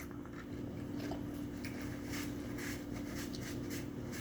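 Quiet eating sounds: soft chewing with small clicks and light scraping, over a steady low hum.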